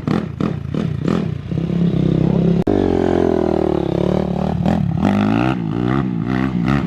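Small motorbike engine firing unevenly for the first second or so as it catches, then running and being revved up and down.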